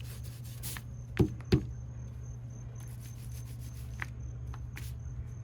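Two sharp knocks about a third of a second apart, over a steady low hum, with a few faint clicks later on.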